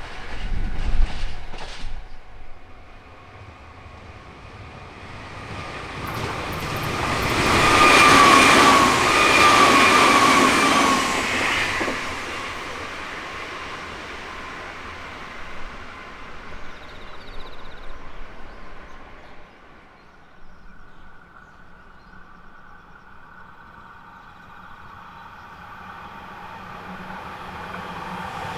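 Nankai Main Line electric train passing by: it grows louder, peaks with a high whine, then fades away. Near the end another train starts to approach.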